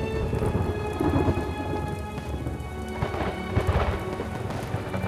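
Fireworks bursting overhead with a dense crackle of many small pops, like rain, loudest about a second in and again three to four seconds in. Music plays underneath and grows clearer near the end.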